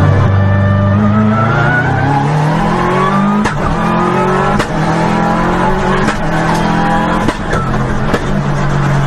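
Car engine accelerating hard through the gears, heard from inside the cabin. Its pitch climbs in second gear, drops at the shift into third about three and a half seconds in, climbs again, and drops at the shift into fourth near seven seconds.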